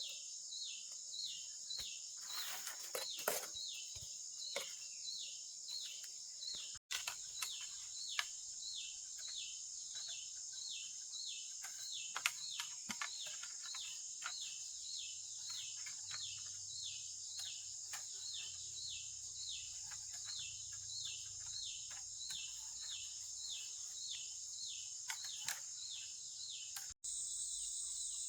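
Steady high drone of insects in the forest, with a short chirping call repeated about twice a second and a few knocks early on.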